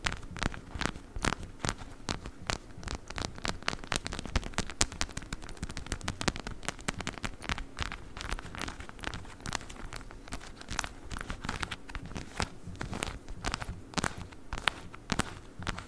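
A plastic 'witch finger' ASMR prop worked close against the microphone, making a dense, irregular stream of sharp crackling clicks.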